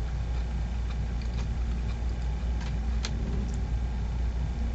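Steady low hum or rumble, like a running engine or machine, with a few faint short clicks about two and a half to three and a half seconds in.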